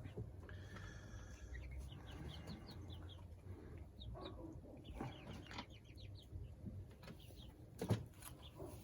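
Young chickens peeping and chirping softly in short scattered calls. A sharp knock sounds once near the end.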